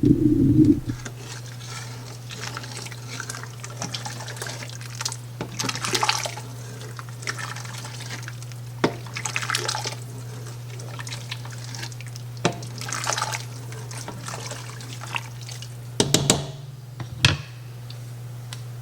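A spoon stirring and scraping through a pot of thick baked-bean sauce, with liquid sloshing in short bouts and a few knocks and clicks against the pot, over a steady low hum. A heavy thud opens it.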